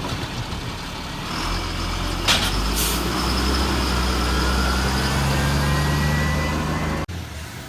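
Garbage truck's diesel engine running, picking up about a second and a half in, with a short sharp air hiss a second later. The sound cuts off abruptly near the end.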